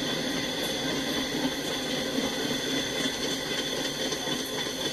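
Freight train of empty flatcars rolling past: a steady rolling rumble of steel wheels on rail, with a few faint clicks. Heard through a trackside webcam's microphone.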